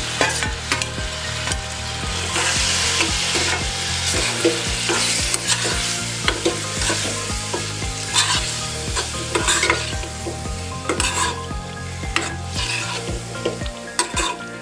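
Wet, spiced small fish hitting hot oil in a kadai and sizzling, most strongly a few seconds in, while a steel spoon stirs and scrapes through them, knocking against the pan with repeated clicks.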